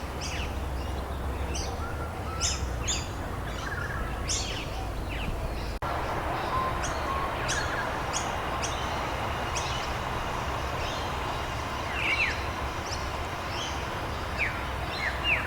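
Many birds chirping in quick, short notes and brief falling calls over a steady hiss of rain. The sound drops out for an instant about six seconds in, and the hiss is a little stronger afterwards.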